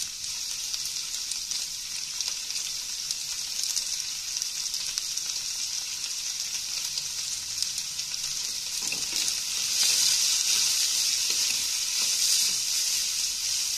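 Chopped shallots, garlic and curry leaves sizzling in hot sunflower oil in a stainless-steel kadai. The sizzle grows louder about ten seconds in as a wooden spatula stirs them.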